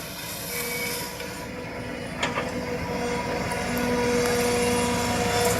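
A backhoe's diesel engine running steadily, getting louder partway through, with a single sharp click about two seconds in.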